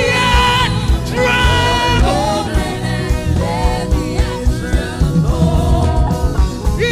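Live gospel worship music: a band with a steady beat under long, held sung notes with vibrato.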